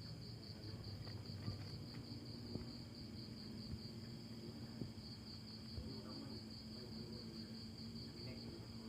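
Insects chirping in a steady high-pitched trill that pulses several times a second, over a low hum with a few faint knocks.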